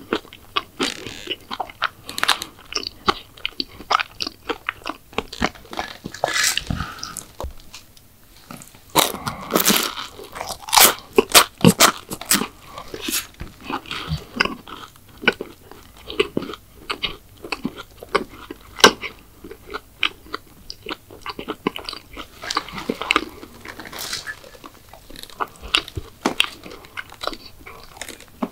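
Close-miked biting and chewing of crunchy McDonald's sweets: a dense run of crisp crunches and chewing clicks, with a short lull about eight seconds in.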